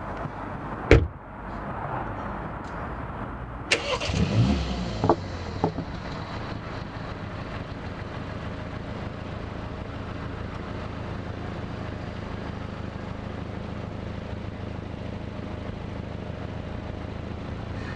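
BMW 128ti F40's 2.0-litre turbocharged four-cylinder starting through a Milltek valved exhaust. A sharp click comes about a second in and the engine catches just before four seconds. It flares briefly with a few sharp peaks, then settles into a steady idle.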